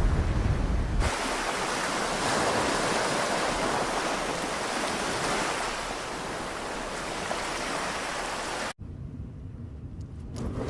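Surf washing onto the beach as a steady hiss of water, with wind buffeting the microphone in the first second. The sound cuts off suddenly near the end, leaving a quieter low wind rumble.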